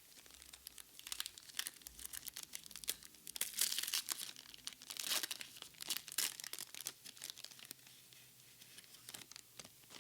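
Foil booster pack of Pokémon cards crinkling and tearing as it is opened, a dense run of crackles loudest a few seconds in, thinning to scattered crinkles near the end.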